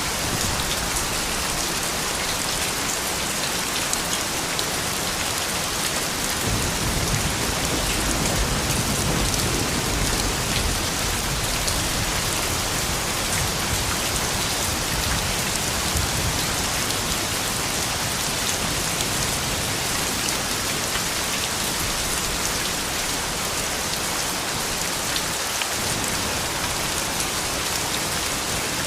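Steady rain falling, a dense even hiss of drops. About six seconds in, a low rumble of distant thunder rolls in under the rain and slowly fades over the next twenty seconds or so.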